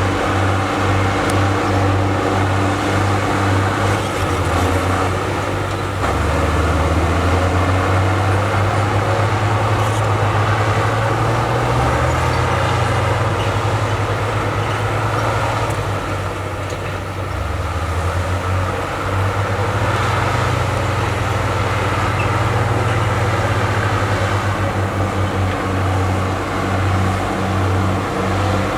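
Heavy diesel engine of earthmoving machinery working, its low engine note shifting up and down several times as the load and throttle change.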